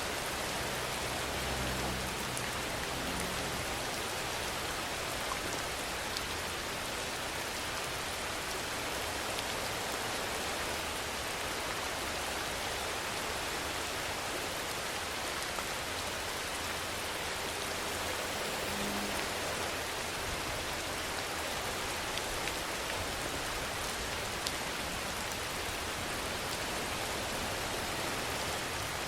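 Steady rain falling, an even hiss with a few sharper drop taps standing out now and then.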